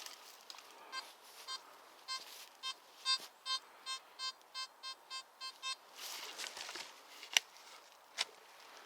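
Metal detector repeating short, even-pitched beeps, about three a second for some five seconds, as it signals a target under the coil. Then rustling with two sharp clicks.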